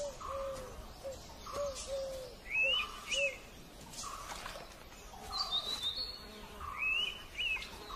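Birds singing: a run of short whistled notes with higher chirps over them, the same phrases recurring about every four seconds.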